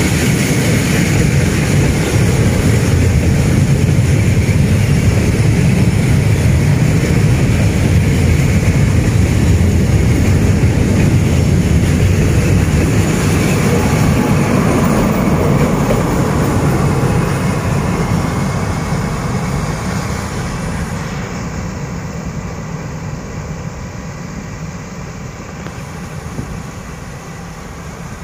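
Freight wagons rolling past with a steady low rumble, then a D11H diesel-hydraulic locomotive at the rear of the train passing under load on an uphill grade. From about 17 seconds in, the sound fades steadily as the train pulls away.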